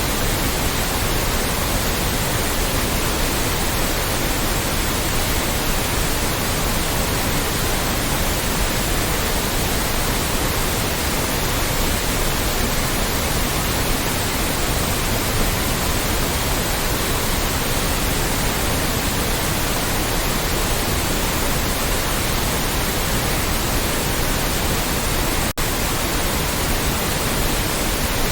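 Loud, steady white noise: an even hiss across all pitches, with a split-second dropout near the end.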